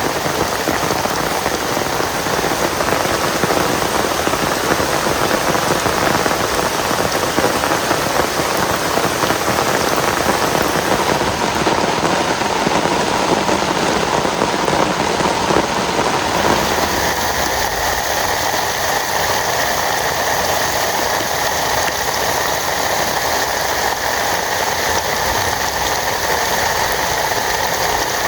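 Heavy rain falling steadily, a dense even hiss of drops. About two-thirds of the way in, the rain's sound changes: the low rumble thins and a lighter, higher hiss takes over.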